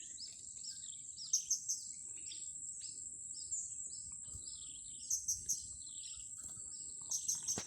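Small birds chirping: a run of short downward-sliding calls about twice a second, with three quick clusters of sharp high notes, over a steady high insect buzz.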